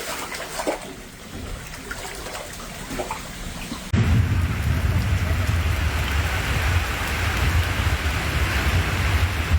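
Rain and water noise, fairly quiet at first with scattered small splashes; about four seconds in it cuts abruptly to a loud, steady downpour with wind rumbling on the microphone.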